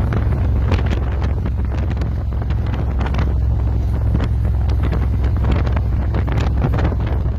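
Wind buffeting the microphone of a GoPro on a moving Harley-Davidson motorcycle, a steady low rumble with many short crackles, with the bike's engine running underneath.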